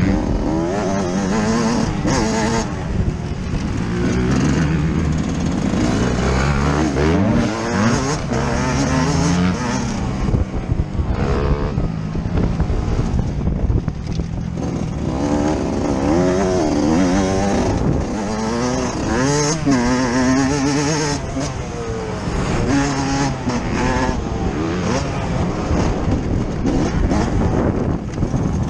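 Yamaha YZ125 two-stroke motocross engine heard from onboard the bike, its pitch climbing and dropping over and over as the throttle is opened and closed and it shifts through the gears.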